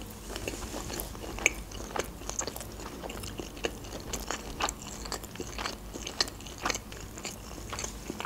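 Close-miked chewing of a mouthful of sushi roll: irregular soft clicking mouth sounds, several a second.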